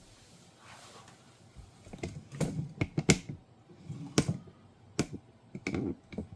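Hard plastic clicking and knocking: a dishwasher's detergent and rinse aid dispenser being handled and snapped into place. A dozen or so sharp, irregular taps start about two seconds in.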